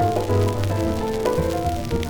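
Choro on piano from a 1942 78 rpm shellac record: a quick piano melody over bass notes and light rhythm-section percussion, with a faint record surface hiss.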